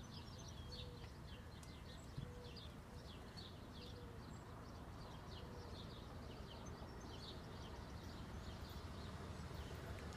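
Birds chirping, with a short lower note repeating about once a second, over a faint low rumble.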